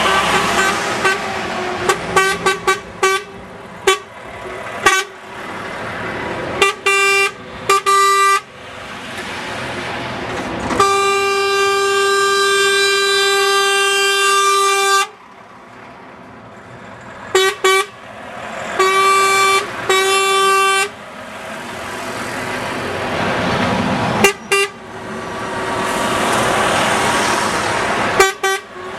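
Truck horns honking: many short toots in the first third, one long blast of about four seconds near the middle, then more bursts of blasts. Underneath runs the steady sound of vehicles passing.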